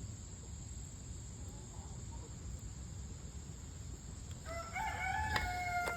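A rooster crows once, a long held call beginning about four and a half seconds in, over a low steady background rumble.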